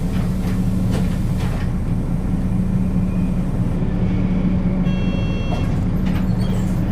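Nissan Diesel KL-UA452KAN city bus heard from inside the cabin, its diesel engine running with a steady low hum. A brief high electronic tone sounds about five seconds in.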